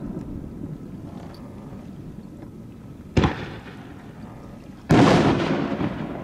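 Two aerial firework shells bursting, a sharp bang about three seconds in and a louder one near the end that trails off over about a second.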